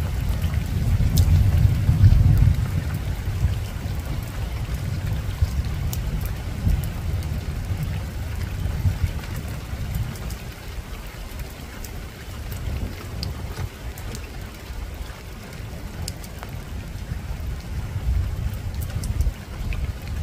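Soft rain falling on a rooftop, with scattered single drops ticking, over a low rumble of distant thunder. The rumble is strongest about two seconds in and swells again near the end.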